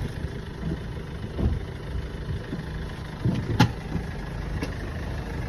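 Recovery truck's engine running steadily at idle, with a sharp knock about three and a half seconds in.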